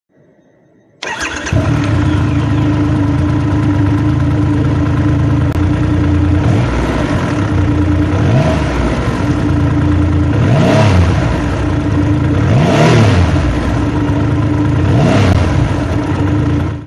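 Superbike engine idling through its exhaust, coming in suddenly about a second in, then revved four times, each blip rising and falling in pitch, before the sound cuts off abruptly.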